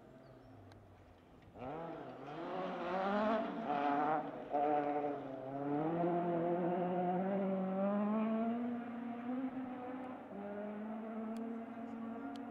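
Fiat 131 Abarth rally car's engine accelerating hard, starting about one and a half seconds in, its pitch climbing and dropping back several times as it changes up through the gears.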